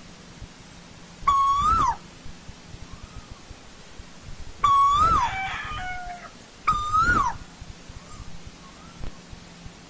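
Asian koel calling: three loud whistled notes a couple of seconds apart, each holding its pitch, rising a little and then dropping away. Fainter calls of the same shape come between them.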